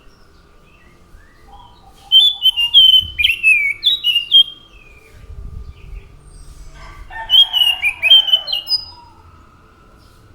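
Anis macan thrush singing two phrases of quick, downward-sliding whistled notes, each about two seconds long, with a pause between them.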